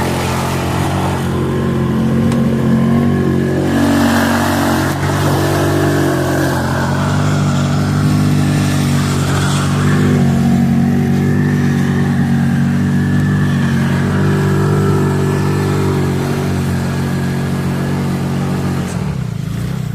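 Car engine running, its pitch rising and falling now and then as the throttle changes.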